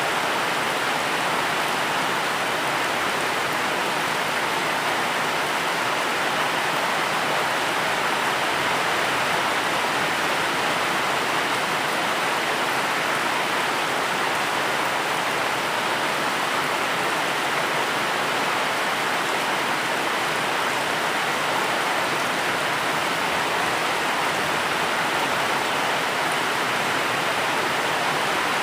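Steady, unbroken rain with an even hiss, with no separate drops, thunder or other sounds standing out.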